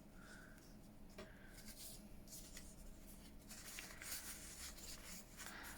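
Faint rustling and sliding of paper as cut pieces are handled and moved about on a journal page.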